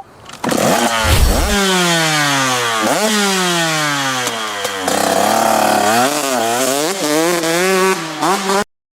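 Dirt bike engine being revved, the pitch jumping up and then falling away slowly several times, then wavering up and down before cutting off abruptly.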